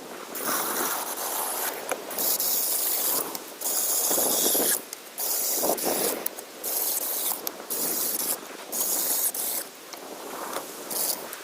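Small cordless electric chainsaw cutting hardwood in short bursts of about a second each, the chain's rasp starting and stopping abruptly several times.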